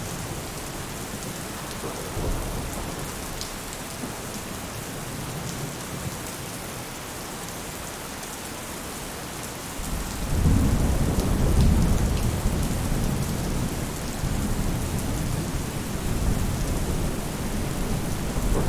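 Rain falling on a roof in a steady hiss, with faint ticks of single drops. About halfway through, a deep, low rumble of thunder swells up and rolls on to the end.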